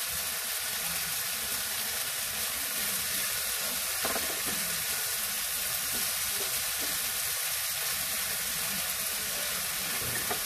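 Diced ham and mushrooms sizzling steadily as they fry in oil in a pan, stirred with a spatula. A short knock about four seconds in.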